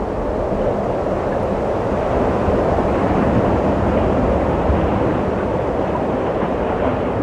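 Steady rushing wind, swelling a little in the middle.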